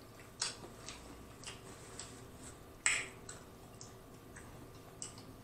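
Close-miked wet chewing and lip smacks of someone eating lobster tail meat: a string of short, irregular clicky smacks, the loudest about three seconds in.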